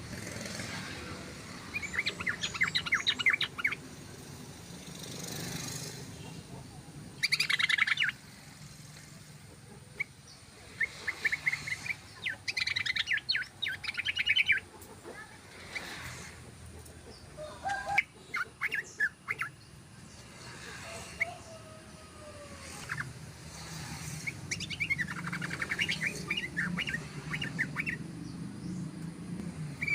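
Yellow-vented bulbul (trucukan) singing in bursts of rapid chattering notes, each lasting one to three seconds, about five times. A steady low hum runs underneath.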